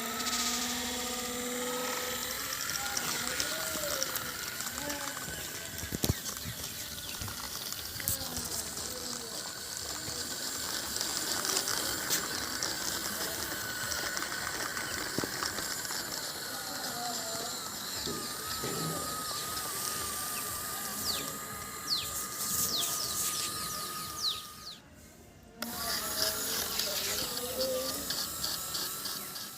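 Small electric gear motor of a toy RC tractor running with a steady, slightly wavering whine and mechanical rattling, broken by a short gap about 25 seconds in.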